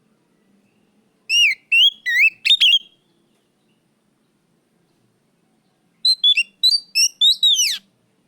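Oriental magpie-robin singing: two short phrases of loud, clear whistled notes, each a quick run of rising and falling whistles, about four seconds apart.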